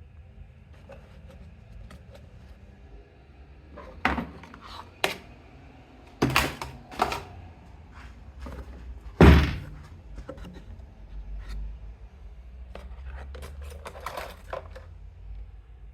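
A series of separate knocks and clunks, like hard objects being handled and set down, the loudest about nine seconds in and a run of lighter clicks near the end, over a faint low steady hum.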